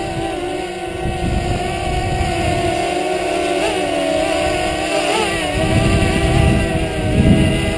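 DJI Mavic Mini drone's propellers whining in flight, a steady set of tones that wobbles briefly in pitch twice as the motors correct against strong wind. Gusts of wind buffet the microphone, strongest near the end.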